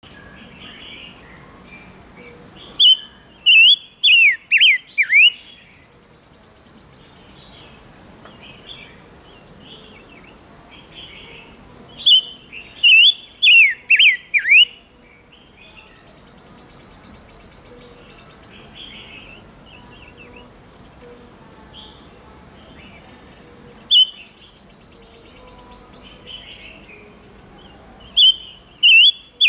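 Silver-eared mesia singing in short bursts of quick, falling whistled notes. Four groups of notes come several seconds apart, with a faint steady background between them.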